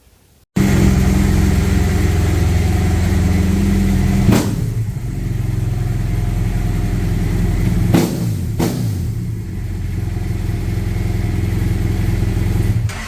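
A motorcycle engine runs steadily at speed, cutting in abruptly and ending abruptly. Its pitch shifts briefly about four seconds in and again about eight seconds in.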